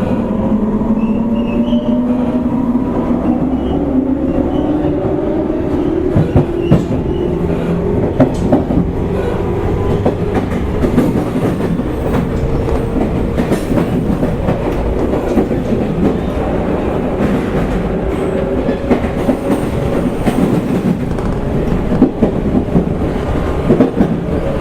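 Running sound of a JR East 185 series electric train's motor car: traction motor whine rising in pitch over the first several seconds as the train gathers speed, then holding steady, over a steady rumble with wheels clicking over rail joints.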